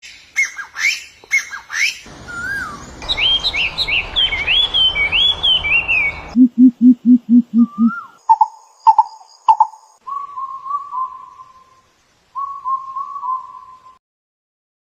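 Several different birds calling in short segments that change abruptly: sharp chirps, then whistled notes sliding up and down over a background hiss, then a run of six low hoots, then repeated whistled notes and short trills.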